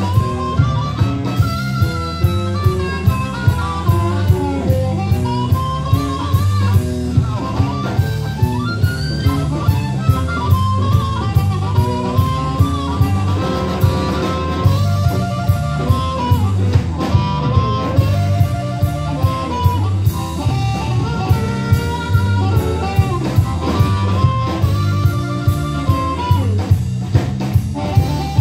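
Live band playing an instrumental passage with a steady drum beat, bass and guitar under a melodic lead line, in a blues style.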